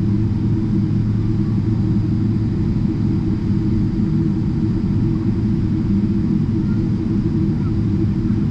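Steady low drone of a Boeing 777-300ER's GE90 engines and airflow, heard from inside the passenger cabin.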